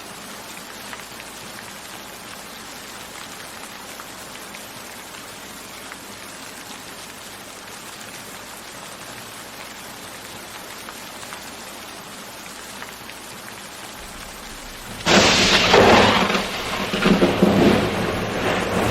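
Steady rain falling; about 15 seconds in a sudden loud thunderclap breaks in and rolls on as rumbling thunder over the rain.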